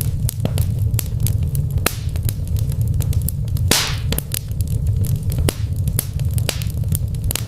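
Fire crackling in a brick fireplace: irregular sharp pops and snaps over a steady low rumble, with a short hiss a little before halfway.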